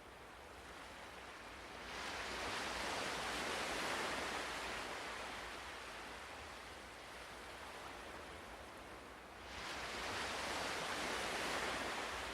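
Ocean waves breaking on a shore. Two waves come in, one about two seconds in and one near the end, each a rush of surf that rises quickly and then slowly fades.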